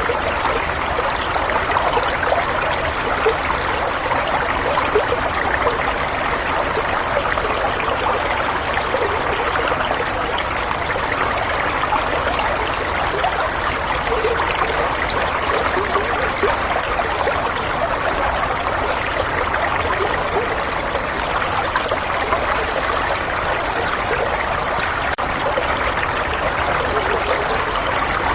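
Running water, a steady stream trickling and babbling with small splashy flickers, unchanging in level throughout.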